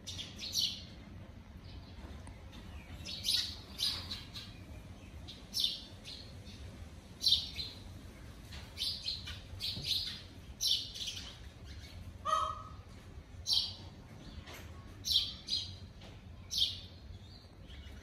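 Small sparrow-like birds chirping: brief, high chirps scattered irregularly, some in quick pairs, over a faint steady low hum. About twelve seconds in there is a single short, lower-pitched note.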